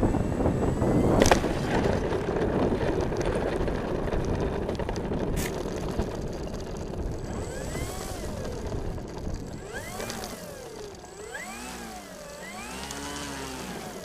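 Rushing air noise on the aircraft's on-board camera, fading steadily, with one sharp knock about a second in; from about halfway through, the plane's electric motor whine rises and falls several times as the throttle is pumped up and down.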